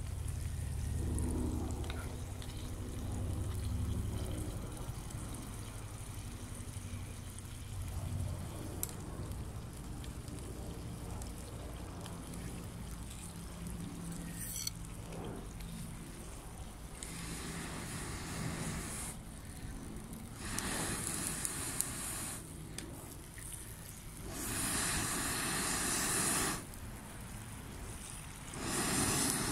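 Water poured or splashing in several separate bursts of about two seconds each, in the second half, over a low rumble early on.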